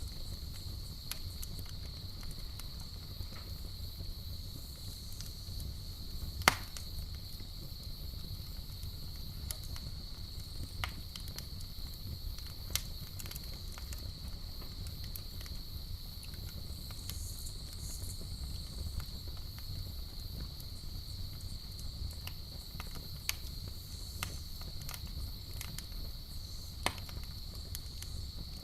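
Campfire burning with scattered sharp crackles and pops, one much louder pop about six seconds in, over a low steady rumble. A steady high-pitched drone of night insects runs underneath.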